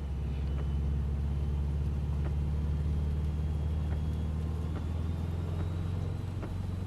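Subaru WRX's turbocharged flat-four engine running steadily as heard inside the car at moderate track speed in heavy rain, with a slight change in engine note about six seconds in and a few faint ticks.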